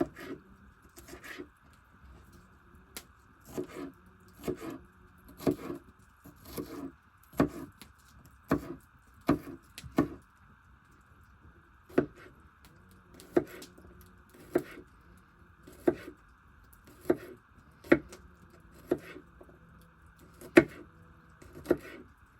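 Kitchen knife chopping vegetables on a cutting board: single, unhurried cuts of about one a second, each a sharp knock, with a short pause about ten seconds in.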